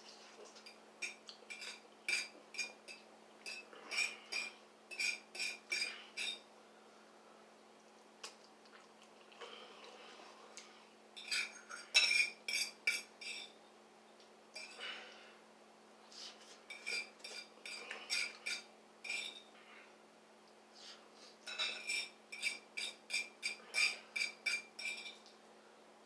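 A metal utensil clinking and scraping against a bowl while noodles are eaten: quick runs of ringing taps, several taps a second, in three bursts with pauses between them.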